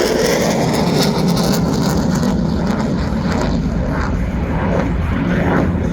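F-16 fighter jet in flight, its jet engine making a loud, steady noise.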